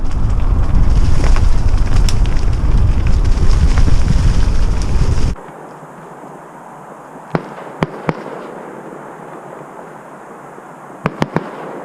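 Heavy wind rumble on the microphone, which cuts off abruptly about five seconds in. In the quieter stretch that follows, distant fireworks bang sharply, in two quick clusters of three.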